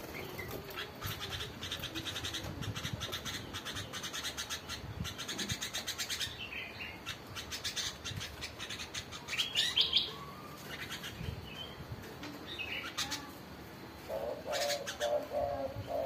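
Caged birds chirping, with a fast run of repeated high chirps through the first half. About a second and a half before the end, a caged dove starts cooing in low, repeated notes.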